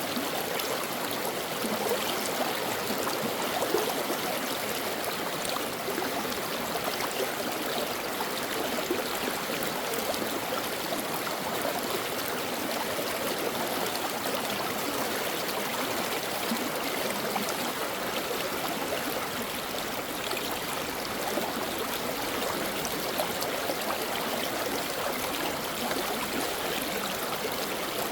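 Shallow stream running steadily over rocks, a continuous rush with small splashes and gurgles.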